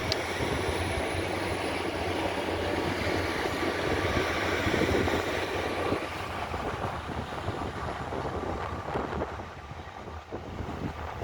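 Train running through the station, its noise swelling to a peak about five seconds in and then fading.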